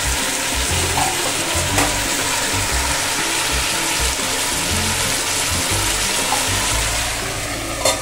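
Matchstick-cut potatoes sizzling steadily in hot oil in a pan. Near the end a short knock as the steel lid is brought onto the pan.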